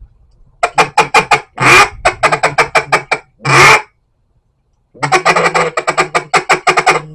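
Echo Timber double-reed duck call blown in a series of short quacks ending on one longer quack. After a pause of about a second comes a faster run of short quacking notes.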